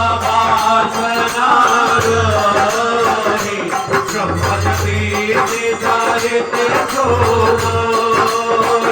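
Instrumental passage of devotional bhajan music with no singing: a harmonium melody over dholak drumming and jingling hand percussion, with a deep drum stroke recurring every two to three seconds.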